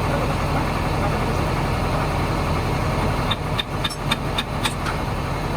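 A steady low engine hum, like a motor running at idle, with a quick run of sharp clicks and taps about three and a half to five seconds in.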